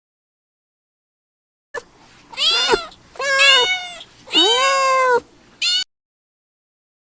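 Three drawn-out animal calls, each rising and then falling in pitch, coming after about two seconds of silence.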